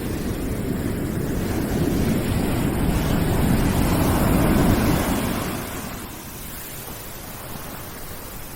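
Continuous white-noise rushing like surf, swelling to its loudest about four to five seconds in and then falling back to a lower steady hiss.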